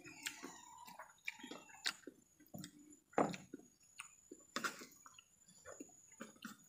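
Mouth sounds of a person eating by hand: chewing and lip smacks, with soft squishing as the fingers press rice on a plate. Irregular short smacks, the loudest about three seconds in and again a second and a half later.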